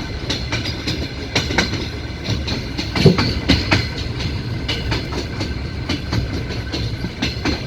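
Passenger train running, heard from inside a carriage: a steady rumble of the wheels on the track with irregular sharp clicks and knocks over the rail joints, one louder knock about three seconds in.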